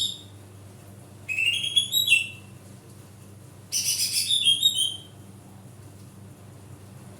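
Cucak ijo (green leafbird) singing its loud basic song: two phrases of quick, stepping whistled notes, each about a second long, a second or so apart. A steady low hum runs underneath.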